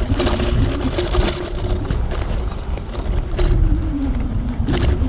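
TRBK-M2 electric hyperscooter's motor whining while riding over a sandy dirt trail, with rattles and knocks from the rough ground. The whine drops in pitch about three and a half seconds in, then rises again.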